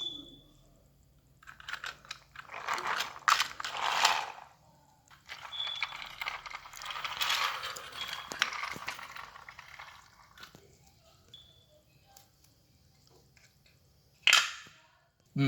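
Small toy vehicles being pushed by hand over a plastic farm playset, scraping and rattling in two long stretches, with a short clatter near the end.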